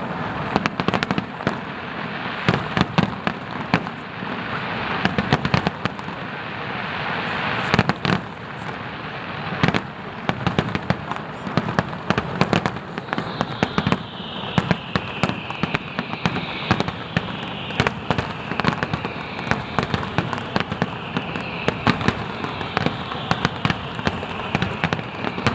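Fireworks display finale: a dense, continuous barrage of bangs and crackling. From about halfway through, a series of falling whistles joins in, one every couple of seconds.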